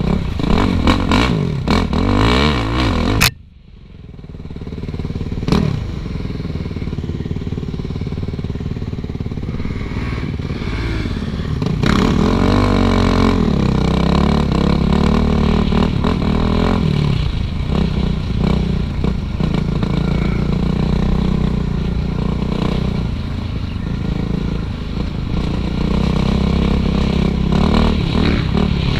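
Suzuki RM-Z450 four-stroke single-cylinder dirt bike engine running on a trail, its pitch rising and falling with the throttle, with chassis clatter. The sound drops off sharply about three seconds in, then builds back.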